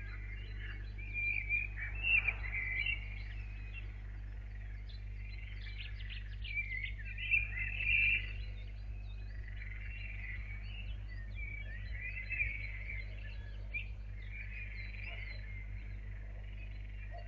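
Birds singing in the dawn chorus, with repeated chirping phrases coming and going throughout, over a steady low electrical hum.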